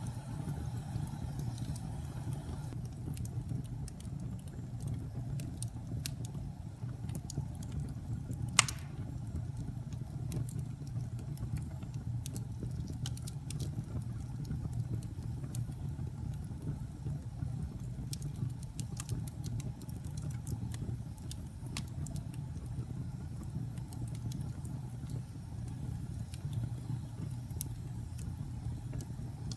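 Wood fire burning in a fireplace: a steady low rumble of the flames with scattered small crackles and one loud pop about nine seconds in.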